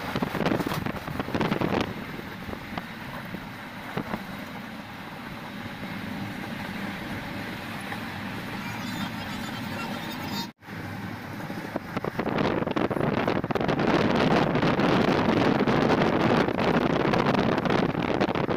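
Passenger train running, a steady rumble and rush with wind buffeting the microphone. Louder after a brief dropout about ten seconds in.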